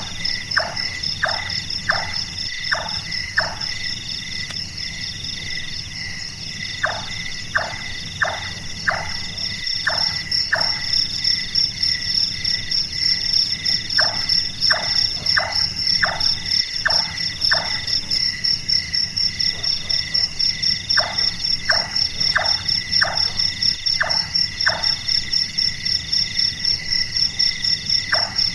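Large-tailed nightjar calling: runs of about six short, downward-sliding 'chonk' notes, roughly two a second, the calls sounding like a carpenter hammering, with a new run starting about every seven seconds. A steady high insect trill carries on underneath.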